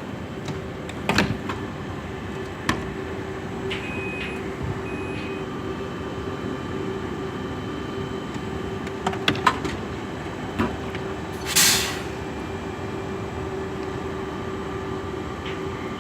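Pendolino electric train standing at the platform with a steady hum, scattered clunks and clicks, and two short beeps about four and five seconds in. A short, loud hiss comes about eleven and a half seconds in.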